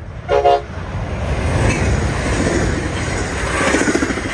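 A bilevel passenger train, cab car leading, sounds one short horn toot just after the start, a chord of several tones. It then rolls past close by, its wheels and rails making a steady rumbling noise that grows louder.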